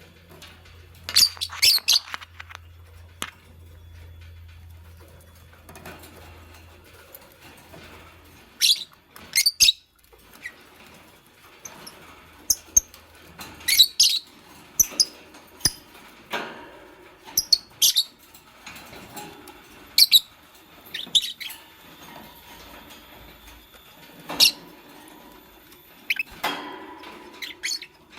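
Fischer's lovebirds giving short, sharp, high-pitched chirps and squeaks in irregular clusters of two or three, a few seconds apart.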